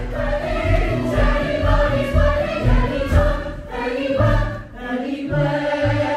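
A musical-theatre ensemble singing together over a live band, with a steady pounding low beat under sustained sung notes.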